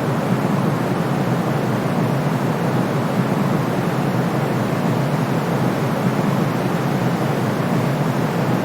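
Steady, unchanging white noise played to soothe a colicky baby: a soft, even rush with most of its weight in the low and middle range and little hiss at the top.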